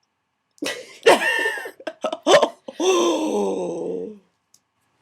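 A person's voice making wordless vocal noises: a few short cries, then a long groan that falls in pitch and ends about four seconds in.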